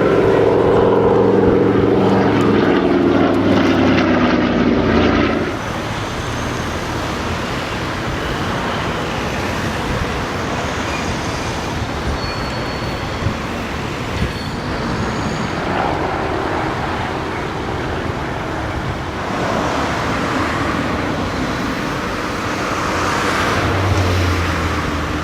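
An aircraft flying past: its engine drone, several tones together, slowly drops in pitch and falls away about five seconds in. A steady rushing noise remains after it.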